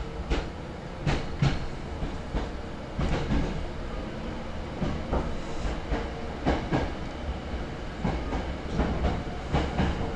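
Hankyu 6300 series electric train running, heard from inside the carriage: a steady low rumble of wheels on rail with irregular clicks and knocks as the wheels pass over rail joints.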